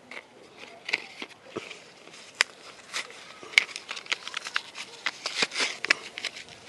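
Plastic packaging of a glue tube being wrestled open by hand: an irregular run of sharp clicks and crackles.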